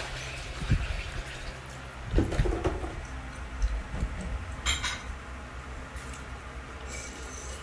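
Dishes and cutlery handled during a meal: scattered light knocks and clinks over a low background rumble.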